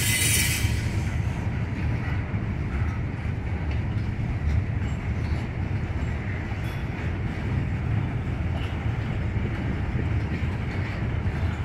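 Norfolk Southern freight train cars, gondolas and covered hoppers, rolling slowly past: a steady low rumble with faint clicks from the wheels. There is a brief burst of hiss right at the start.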